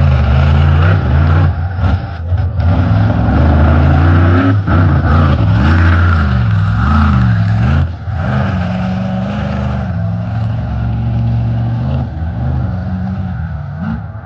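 Monster truck's V8 engine at high revs, the pitch held high at first, then swinging up and down several times as the throttle is worked, dropping sharply about eight seconds in and holding lower before more revving near the end.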